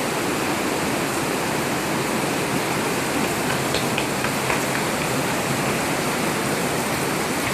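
Heavy rain pouring down in a steady rush, with water running and splashing. A few faint drips or ticks sound about halfway through.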